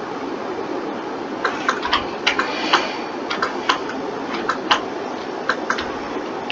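Irregular run of light clicks from a computer mouse and keyboard, over a steady background hiss.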